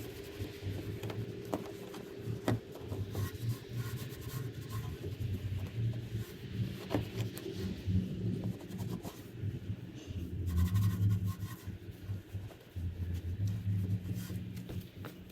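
A cloth rubbing polish onto a chrome exhaust tip in uneven scrubbing strokes, with scattered faint ticks.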